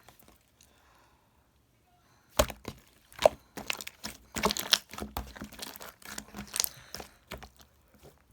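Quick, irregular crackling and crinkling handling sounds, starting about two seconds in and lasting about five seconds.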